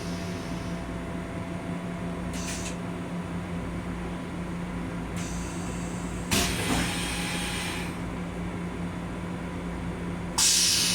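Several sudden hissing bursts, each fading over a second or two, from a fixture in the restroom of a Long Island Rail Road M7 railcar, over the steady hum of the car. The strongest come about six seconds in and near the end.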